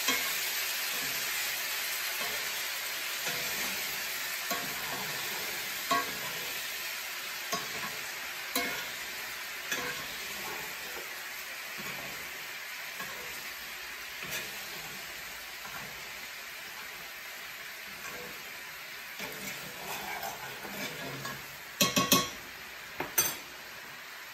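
Sea scallops sizzling in a cast-iron skillet of bubbling honey-orange glaze, with a spoon clicking and scraping against the pan as the glaze is scooped over them. The sizzle slowly dies down, and a quick cluster of sharp clicks comes near the end.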